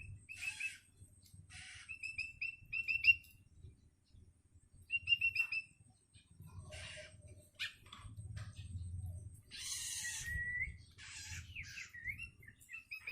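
Young long-tailed shrike calling: quick runs of short, clipped high notes mixed with harsh raspy screeches, and a few slurred whistles near the end. These are the calls of a hungry youngster begging for its parent.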